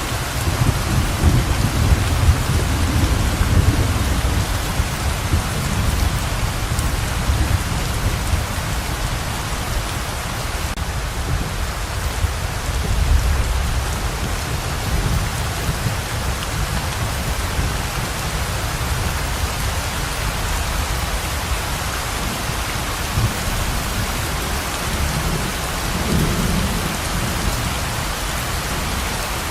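Heavy rain pouring steadily, a dense even hiss. A low rolling rumble of thunder comes in right at the start and fades out by about halfway, and a weaker rumble swells again near the end.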